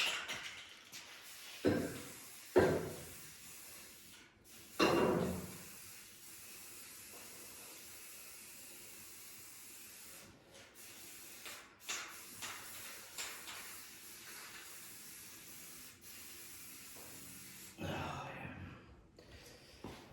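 Aerosol spray-paint can hissing in a long, even spray. Three short loud sounds come in the first five seconds, the loudest about five seconds in, and another comes near the end.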